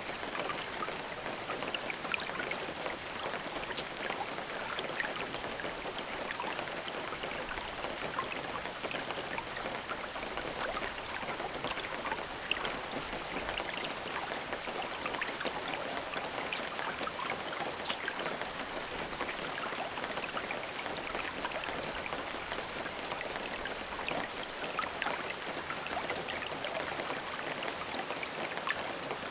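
Steady rain falling, a constant patter of many drops hitting a surface with no thunder.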